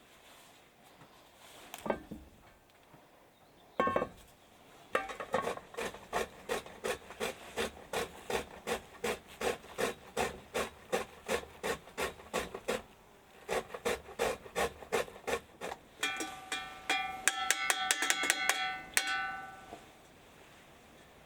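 Repeated rasping, scraping strokes, about three a second, with a short pause midway. Near the end they come faster and with a ringing edge.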